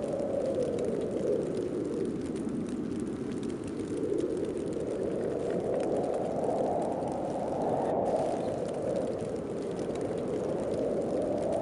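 Snowstorm wind blowing in gusts: a steady rushing noise that swells and eases every few seconds, its pitch rising and falling with each gust.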